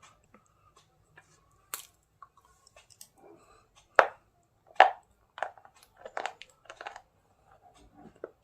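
Crunchy bites and chewing of hard white chalk pieces, a run of sharp crunches every second or so, the two loudest about halfway through.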